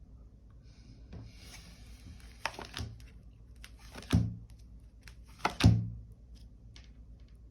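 Tarot cards being handled on a table: a light rustle of cards with a few soft taps, then two thuds about a second and a half apart.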